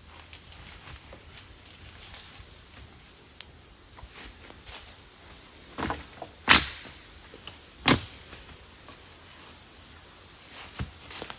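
Campfire being got going: faint rustling and crackling of handled kindling and gear, with a few sharp cracks, the two loudest about six and a half and eight seconds in.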